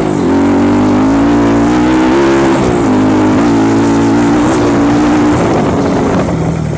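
Off-road trail motorcycle engine under throttle: the revs climb, dip for a moment as it shifts gear, then hold high and fairly steady for about five seconds before dropping off near the end.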